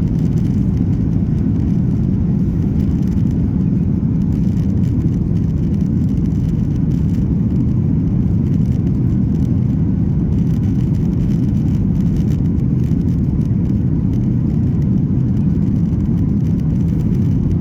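Steady low engine and air noise inside the cabin of a Boeing 737-800 with CFM56 turbofans, under power during the takeoff.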